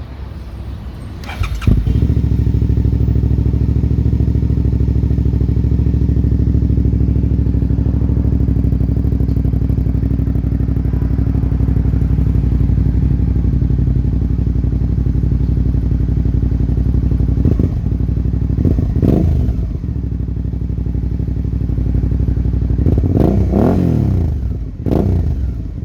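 Suzuki V-Strom's V-twin engine through a Yoshimura aftermarket exhaust: it starts up about two seconds in and idles steadily, then is blipped up and back down a few times near the end.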